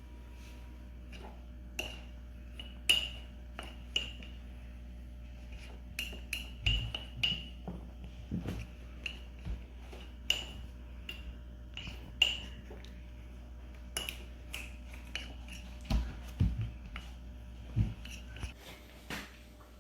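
A spoon stirring dry cake mix of flour, sugar, cocoa and baking powder in a cup, clinking irregularly against the cup's sides with short ringing taps, a few louder knocks among them.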